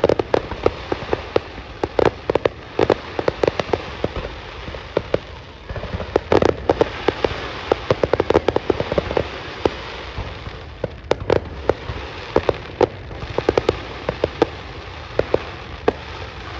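Fireworks going off in quick, irregular succession: sharp bangs several a second over a steady crackle.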